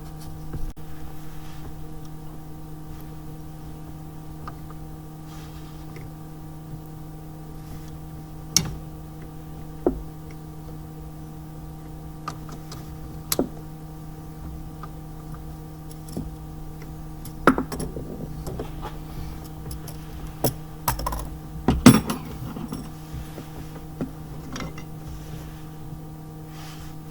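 Scattered clicks and knocks of hand tools and small parts being handled, thickest a little past the middle, over a steady hum.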